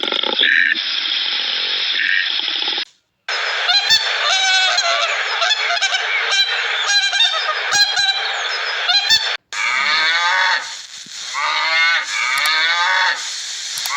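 Birds honking in loud, repeated calls, in three stretches that cut off abruptly about three seconds in and again about nine and a half seconds in.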